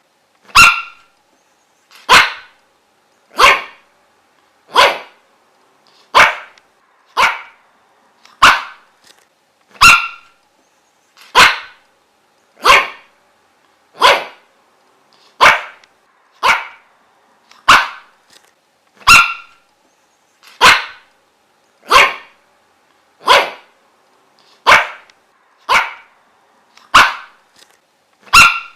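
A dog barking in single, separate barks at a steady pace, about one every second and a third, over twenty barks in all.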